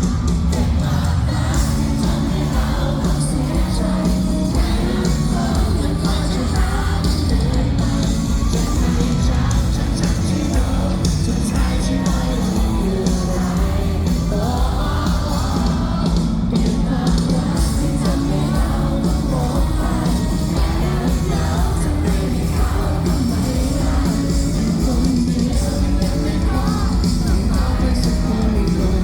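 Live band playing amplified pop-rock with a lead vocalist singing over drums, bass and guitars.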